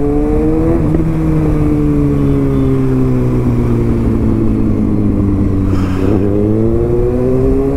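Kawasaki ZX-6R inline-four sport bike engine under way. The note rises, breaks about a second in, sinks slowly for several seconds as the bike slows, then climbs again about six seconds in as it accelerates.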